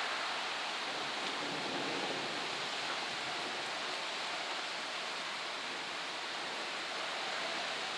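Steady rushing noise of a rainstorm, an even hiss with no distinct drops or gusts.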